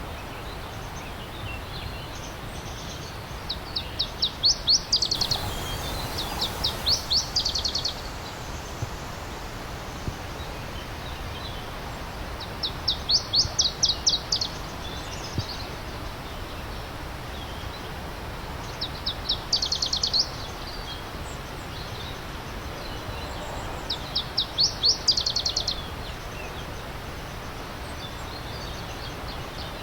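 A songbird repeating a short, fast, high trill, each phrase about a second long and coming every five or six seconds, over the steady rush of a stream.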